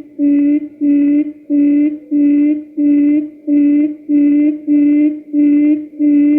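Quail lure call played from a recording: one low, steady hooting note repeated about twice a second in an even, unbroken series.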